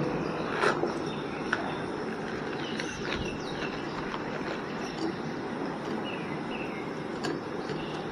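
Outdoor ambience: a steady background hiss with a few short falling bird chirps, and several sharp clicks or knocks scattered through.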